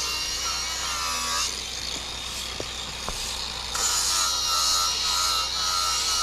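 Power saw cutting wood along a marked line, running with a steady whine that drops away for about two seconds in the middle, with a couple of clicks, before the cut resumes.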